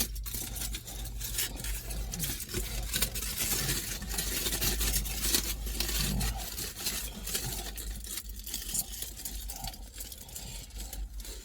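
Irregular scraping, clicking and rustling of a doner kebab being prepared, with utensils and wrapping handled, over a low steady hum.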